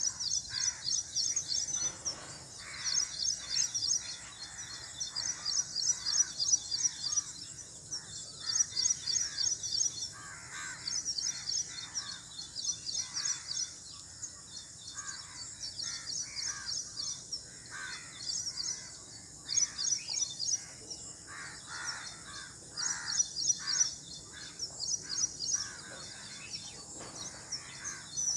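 Several birds calling: bouts of fast, high chirping trills about a second long, repeating every few seconds, over lower, harsher calls.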